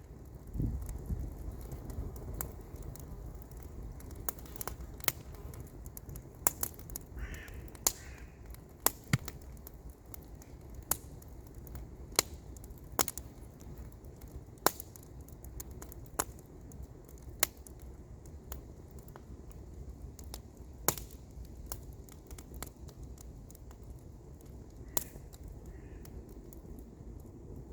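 Wood campfire crackling, with sharp irregular pops about once a second over a steady low rumble. A bird gives two short calls about seven seconds in and two more near the end.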